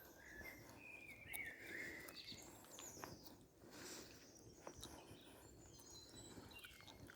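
Near-silent spring forest ambience: faint distant birdsong in the first couple of seconds, with soft footsteps and rustles.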